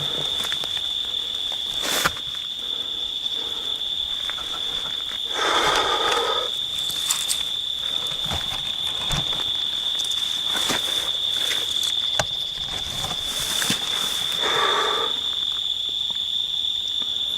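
Crickets trilling steadily at one high pitch, with a sharp click about two seconds in and two brief rustling noises, about six and fifteen seconds in.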